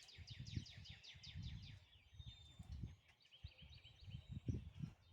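Birdsong: a rapid run of short, high, falling notes, then a different phrase of quick notes starting about three seconds in, over a faint, uneven low rumble of outdoor background noise.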